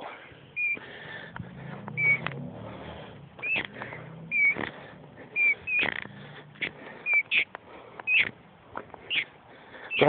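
A bird chirping: short high notes, about ten of them spaced roughly a second apart, with faint clicks and rustles between them.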